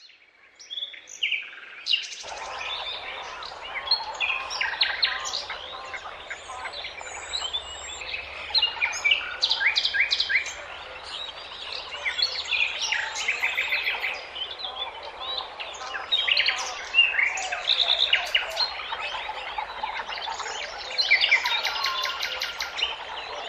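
Many small birds chirping and singing over one another, with quick trills of rapidly repeated notes, over a steady background hiss. The sound fades in at the start.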